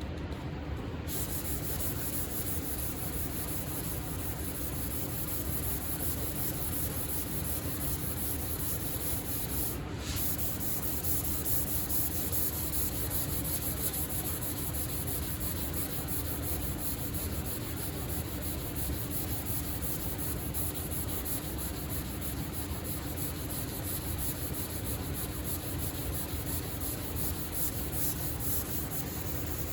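Sandpaper rubbing steadily over primer surfacer on a car body panel: 400-grit paper flattening the primer. There is a brief break about ten seconds in.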